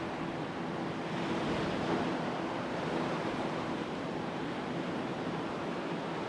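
Waves breaking and washing up on a sandy beach, a steady surf noise that swells a little about two seconds in.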